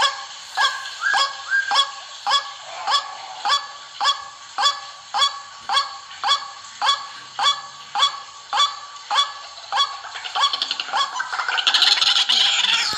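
White-breasted waterhen calling: a harsh, honking 'kruak' repeated about twice a second, breaking near the end into a faster, louder run of chattering notes.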